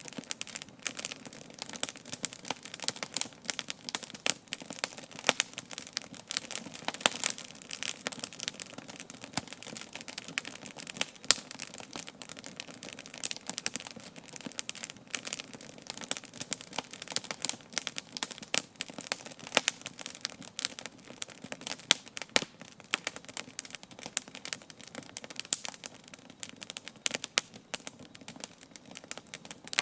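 Wood campfire crackling, with a steady run of irregular sharp pops and snaps from the burning logs.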